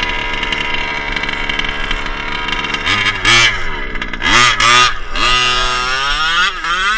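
Small gas engine of a 1/5-scale radio-control truck, running steadily at high revs for about three seconds, then revved up and down sharply several times with loud bursts of throttle.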